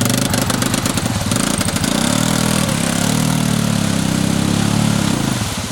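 ATV engine running, picking up revs about two seconds in and holding them, then dropping back to a pulsing idle near the end.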